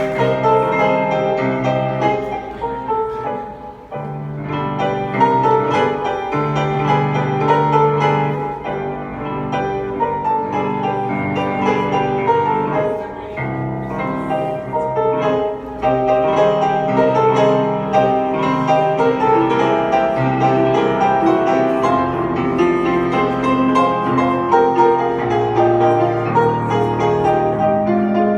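Piano playing a slow instrumental interlude of a ballad, with no singing.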